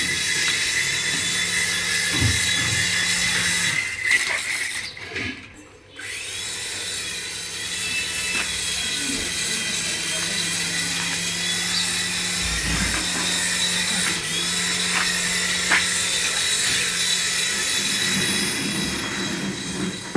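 A small battery-powered toy motor whirring steadily with a high hiss. It cuts out briefly about five seconds in, then starts again.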